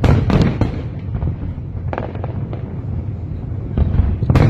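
Aerial fireworks going off: a quick cluster of bangs and crackles at the start, a single crack about two seconds in, and another cluster of bangs near the end, over a continuous low rumble of distant bursts.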